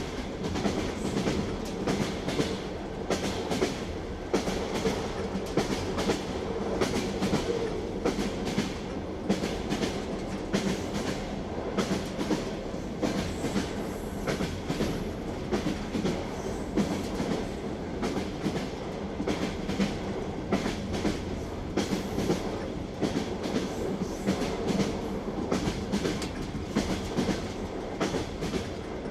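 Train wheels clattering over rail joints in a rhythmic clickety-clack. Sharp repeated clicks sound over the steady rumble of a moving railway carriage.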